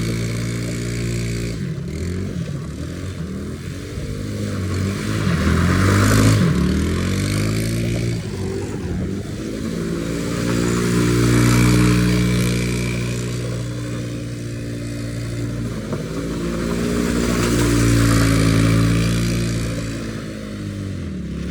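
Small off-road vehicle engine revving up and down as it is ridden, its pitch rising and falling over and over and growing louder about every six seconds.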